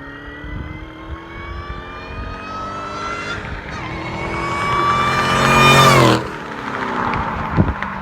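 A 2006 Mustang GT's 4.6-litre V8, breathing through JBA shorty headers and a Borla ATAK exhaust, accelerates hard, its note rising steadily for about six seconds with a brief break partway through. At the top the throttle is lifted and the note drops off sharply to a lower running sound, with one sharp pop near the end.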